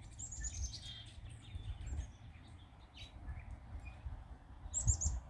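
Small songbirds at a feeder chirping: a quick run of high notes falling in pitch about a second in, scattered calls, and a fast cluster of high chirps near the end.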